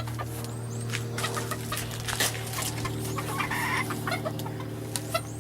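Backyard chickens clucking in short scattered calls, over a steady low hum.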